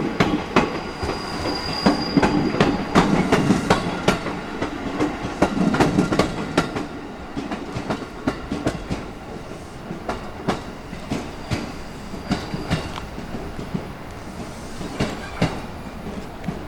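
Series 205 commuter train cars rolling by unpowered, with their wheels clicking over rail joints in an irregular series of knocks. A thin wheel squeal comes in briefly about a second in and again near twelve seconds. The rumble is loudest in the first half and then eases off.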